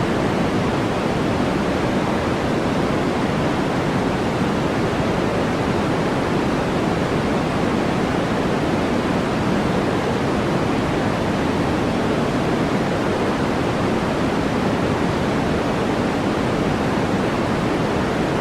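Steady, unchanging noise of a sleep-aid noise track, sold as white noise. Its energy sits in the lows and middles rather than in bright hiss, giving a soft, even rush.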